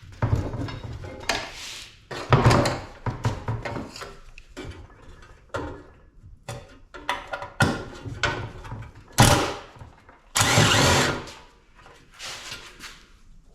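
Scrap metal being taken apart with hand tools: a run of irregular knocks and clanks with several longer scraping, rasping strokes. The loudest are a sharp knock about nine seconds in and a rasp that lasts most of a second about ten and a half seconds in.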